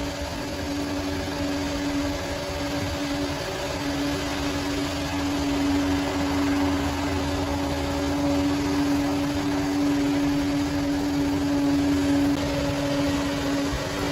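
Bulldozer's diesel engine running steadily under work, with a steady whine over a low rumble that grows a little louder over the first few seconds.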